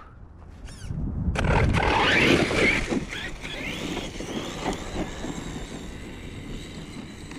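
Redcat Racing Shredder 1/6-scale RC monster truck driving, its electric motor whining up and down in pitch over a rattly, noisy drivetrain. It is loudest in the first few seconds, and wind buffets the microphone throughout.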